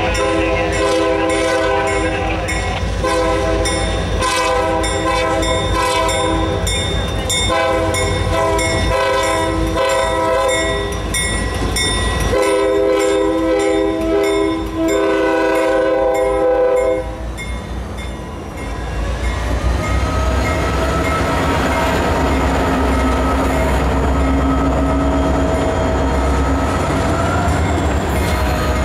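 Diesel freight train's air horn sounding several blasts for a grade crossing, with a bell clanging rapidly over it. The horn stops about 17 seconds in; then the EMD diesel locomotives and freight cars rumble past close by, with a faint drawn-out whine from the wheels.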